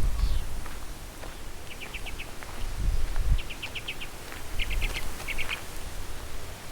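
A bird calling in quick runs of four to six short, high notes, about four runs in all. Wind rumbles on the microphone underneath, strongest at the start.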